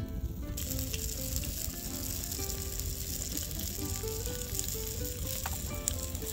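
Food sizzling in hot oil in a frying pan. The sizzle starts abruptly about half a second in, and a couple of faint clicks come near the end.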